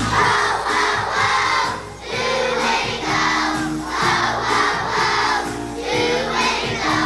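A children's choir singing a song in phrases of about a second, with instrumental backing.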